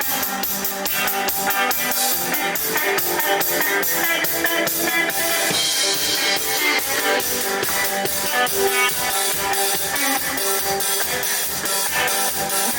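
Live indie rock band playing instrumentally: drum kit keeping a fast, steady beat under electric guitar, heard as raw, unmixed live sound.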